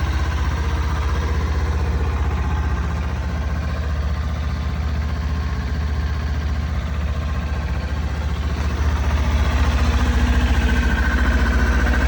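2018 Kawasaki Ninja 400's parallel-twin engine idling steadily, growing a little louder about nine seconds in.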